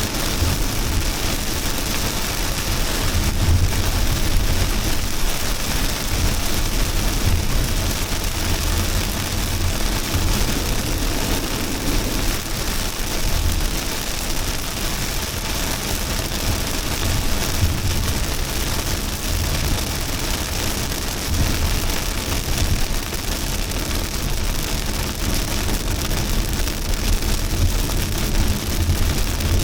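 Heavy rain falling in a steady, even hiss, with a low rumble that swells and fades underneath it.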